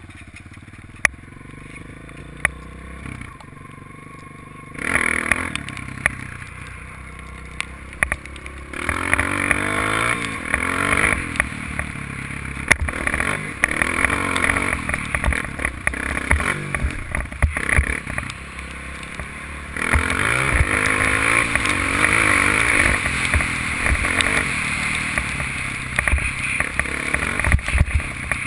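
Honda dirt bike engine running, lower for the first few seconds, then revving up and dropping back repeatedly from about five seconds in, with louder stretches around nine and twenty seconds. Scattered sharp knocks and clatter.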